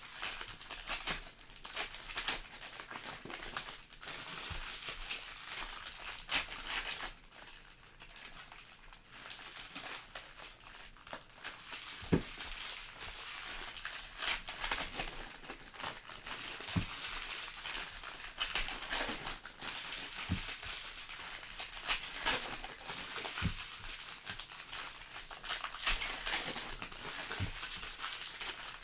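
Plastic and foil wrappers of sealed trading-card hobby boxes and packs crinkling and tearing as they are opened by hand, with scattered small knocks.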